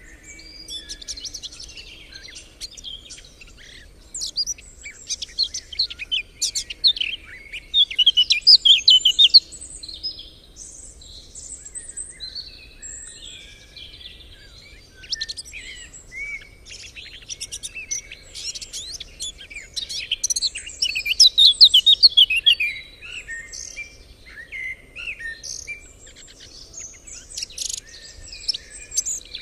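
Several songbirds singing and calling at once, a dense chorus of chirps and trills, with two loud rapid trills about a third of the way in and about three quarters of the way in.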